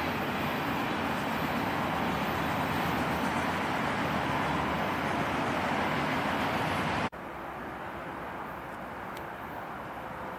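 Steady rumble and rush of a passing train's cars rolling on the track. It cuts off suddenly about seven seconds in, giving way to quieter steady outdoor background noise.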